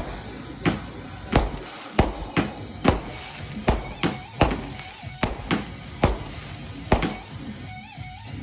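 Fireworks firing a quick, uneven run of sharp bangs, about two a second.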